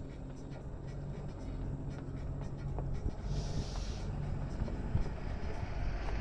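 A vehicle's engine idling with a low steady hum, with small scratching and handling noises and a brief hiss a little past the middle.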